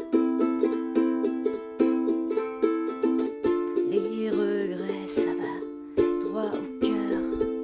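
Flea ukulele strummed in chords at a steady rhythm, about three to four strokes a second, in an instrumental passage between sung lines.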